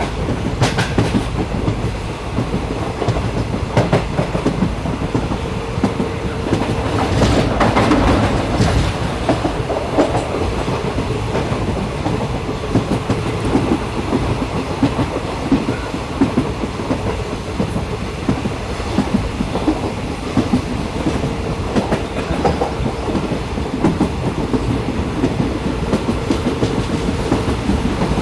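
Train running on rails: a steady rumble with repeated clicks of the wheels over the track, growing a little louder about seven to nine seconds in.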